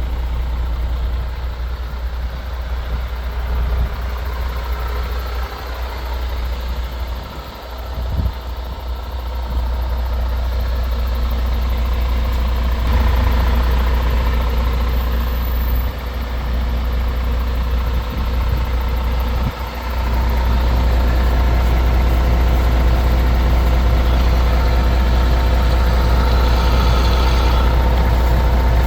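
Diesel engine of an MAN TGS 18.430 truck running at idle with a steady low drone. It briefly dips in level a few times and settles louder in the last third.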